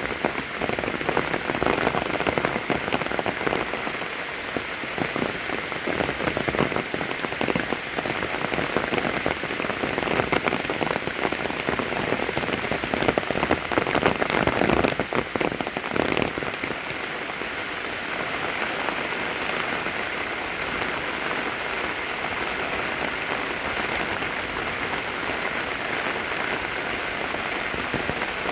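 Steady rain falling, with many close individual drops striking amid the even hiss; heavier and more uneven for about the first half, then settling to a softer, steadier fall.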